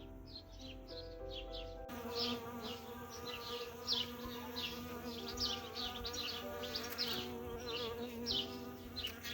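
Bees buzzing in a steady hum whose pitch wavers, starting suddenly about two seconds in, with small birds chirping repeatedly over it. Before the buzzing starts, soft background music plays under the birdsong.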